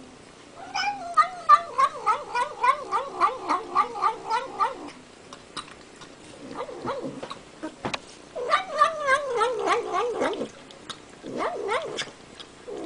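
Domestic cat making a wavering, pulsing vocal sound as it eats, a quick warble of about four to five notes a second. It comes in bouts, the first about four seconds long and the later ones shorter, with short pauses and a few sharp clicks between them.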